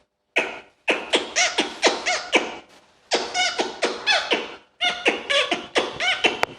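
A person beatboxing: rapid mouth clicks and pops, about four a second, mixed with short chirping pitched vocal sounds, in phrases broken by brief pauses.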